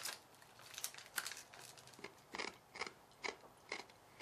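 Someone chewing tiny dried crabs: a run of faint, crisp crunches, about two a second in the second half.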